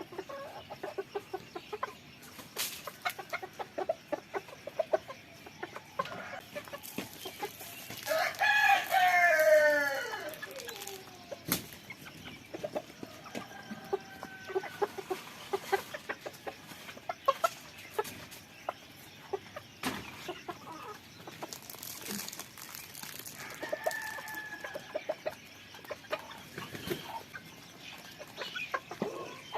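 Chickens clucking on and off, with a rooster crowing once, about eight seconds in, for about two seconds; the crow is the loudest sound. A single sharp click follows shortly after.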